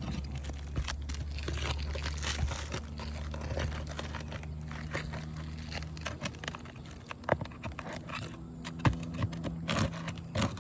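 Scraping and crunching of asphalt roofing shingles as old nails are pried out from under them. Several sharp, loud clicks come in the second half as the tool catches and snaps against the shingles and nails, over a steady low hum.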